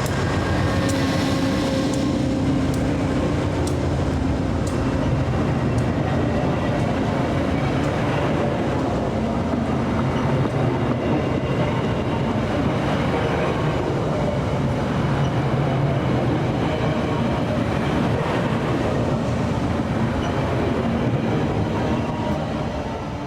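A train running past on the rails: a steady rumble of wheels and cars, fading out near the end.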